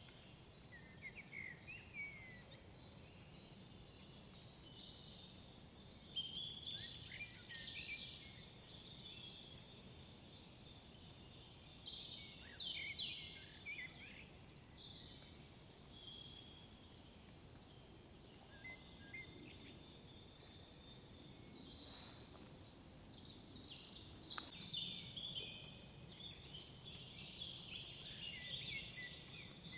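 Songbirds singing in short phrases that repeat every few seconds, several of them ending in a very high, thin trill, over a faint steady background hiss.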